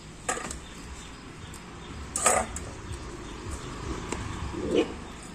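Dogs squabbling over food, making a few short, sharp sounds. The loudest comes a little over two seconds in, and a lower-pitched one near the end.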